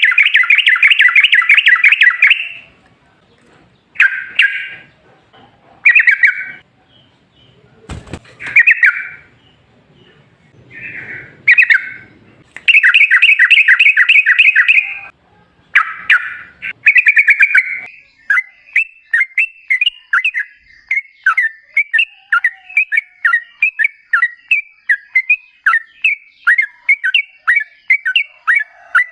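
Yellow-vented bulbul (trucukan) singing: loud bursts of rapid chattering notes at the start and again around the middle, short phrases in between, then a long fast run of sharp notes, about four a second, for the last ten seconds or so.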